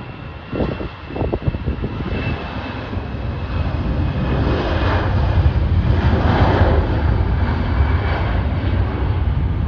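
Jet airliner passing close by, its engine noise building over a few seconds to a loud peak past the middle. A few low thumps come near the start.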